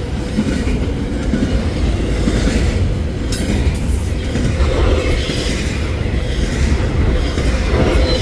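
Intermodal freight train rolling past close by, a loud steady rumble with the wheels clattering over the rails and brief metallic squeals.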